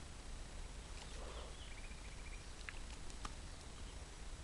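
Faint bird chirps, including a short rapid trill about a second in, over a steady low rumble of outdoor background noise, with two sharp little clicks around three seconds in.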